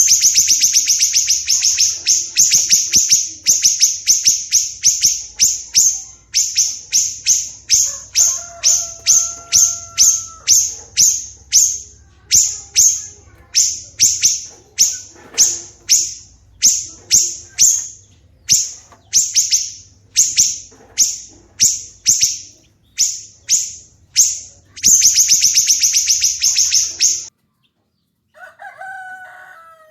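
A songbird repeating harsh, scratchy chattering notes, two to three a second, in dense fast runs at the start and again about 25 seconds in. The chatter stops suddenly a little after 27 seconds. A different, lower bird call follows near the end, and a short steady whistle sounds faintly about 8 to 10 seconds in.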